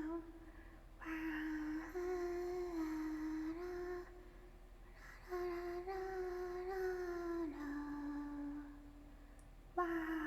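A young woman humming wordlessly in long held notes that waver a little in pitch, in two main phrases with short pauses between, and a new one starting near the end: tipsy vocal noises made while drinking.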